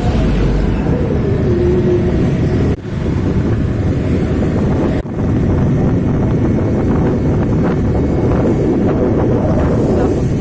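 Steady loud rumble of trucks and road traffic, with wind buffeting the microphone. The sound breaks off briefly twice.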